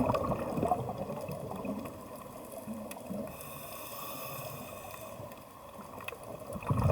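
Water sloshing and gurgling with scattered faint clicks. It eases off through the middle and swells louder again near the end.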